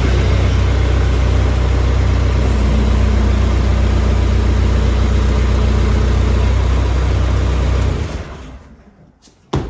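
Bridgeport milling machine's electric motor running steadily with a low hum, switched on as a test run to check that a freshly reassembled part is seated right. It is switched off about eight seconds in and spins down, with a short click near the end.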